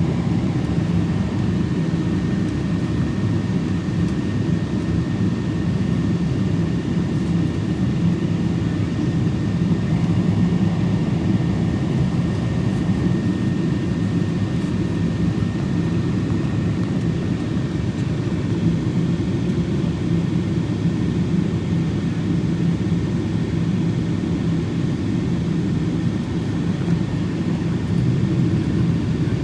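Steady low rumble of jet engines and airflow heard inside the cabin of a Boeing 777-200 in flight, with a faint steady high tone.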